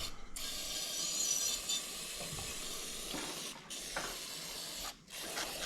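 Aerosol carb cleaner hissing from the can in long sprays into a Stromberg carburettor's float bowl, with short breaks about three and a half and five seconds in.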